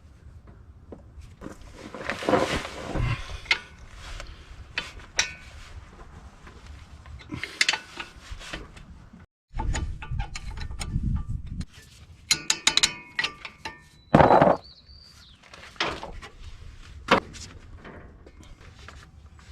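Hand tools on the driveshaft's rear U-joint at the differential of a Chevy P30 chassis: scattered metal clicks and knocks of a wrench on the strap bolts. A run of ringing metal clinks comes a little past halfway, followed by one loud clank.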